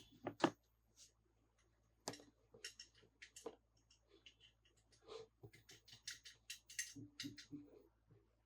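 Quiet, irregular clicks, taps and crinkles of small toys and plastic packaging being handled, in clusters of quick sounds.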